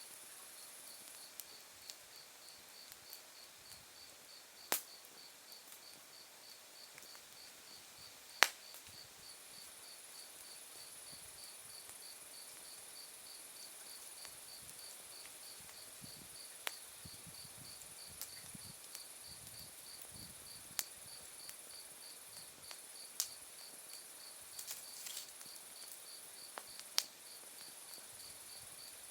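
Autumn night insects chirping: a steady, rapid pulsed chirp over a higher continuous trill. A burning wood fire pops sharply now and then, the loudest snap about eight seconds in.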